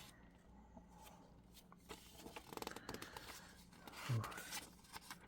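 Faint rustling and scraping of glossy magazine pages being handled and turned, loudest about two to three seconds in.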